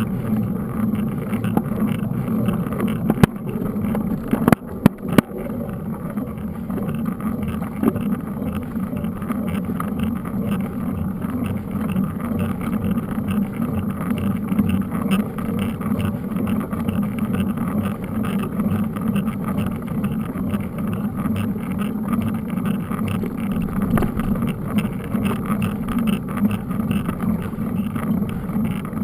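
Steady rushing and rumbling of a mountain bike being ridden, heard from a camera mounted on the bike or rider: tyre, frame and wind noise, with a few sharp knocks about three and five seconds in.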